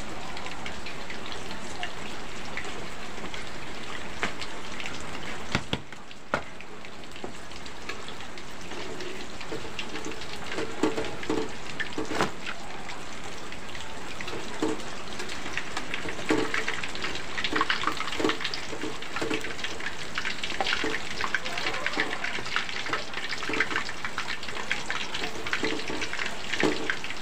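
Battered banana pieces frying in hot oil in a wok, a steady sizzle with crackling that grows busier about halfway through, and a few sharp clinks of a metal spatula against the wok as the pieces are turned.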